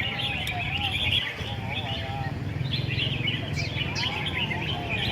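Many caged red-whiskered bulbuls singing at once: a dense chatter of high chirps over repeated lower, warbling whistled phrases, with a steady low hum underneath.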